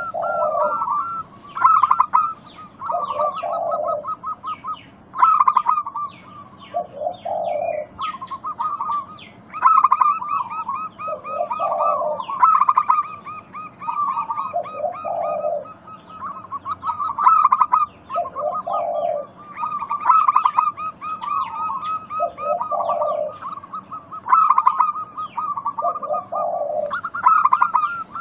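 Zebra doves (perkutut) cooing, a low phrase repeated every three to four seconds over a dense, higher twittering chatter. It is a lure song for prompting caged zebra doves to answer and sing.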